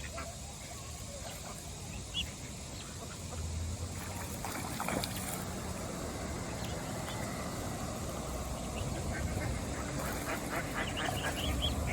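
Ducks quacking at a pond in short scattered calls, with a quick run of calls near the end, over a steady low rumble.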